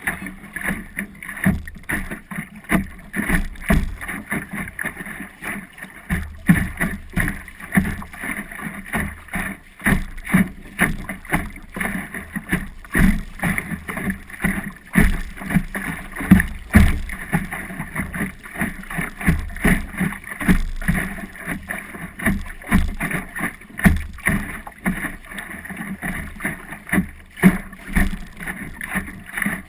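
Water slapping and splashing against the hull of an Optimist sailing dinghy under way, in dense, irregular knocks.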